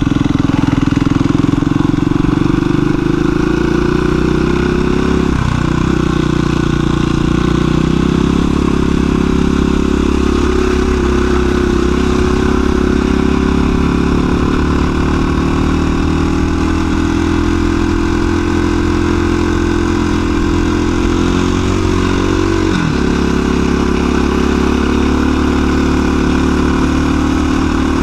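2017 KTM 350 EXC-F dual-sport motorcycle's single-cylinder four-stroke engine running at low, steady throttle while riding slowly along a trail. Its note breaks briefly twice, about five seconds in and again a few seconds before the end.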